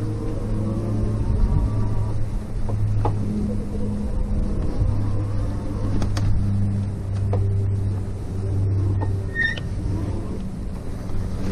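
RadMini electric bike being ridden: a steady low rumble and hum from the motor and tyres that swells and fades, with a few faint ticks and one brief squeak about nine seconds in.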